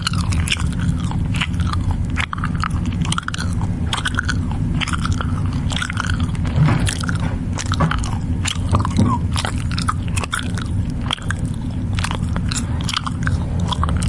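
Goats chewing and crunching feed up close: a dense, irregular stream of bites and crunches over a low rumble.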